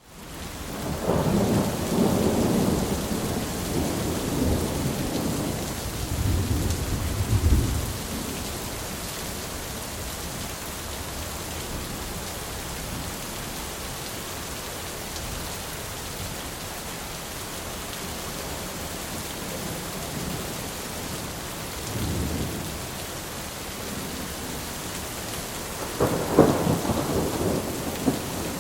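Steady rain falling, with rolling thunder: a long rumble over the first several seconds, a short one past the middle, and a louder crack and rumble near the end.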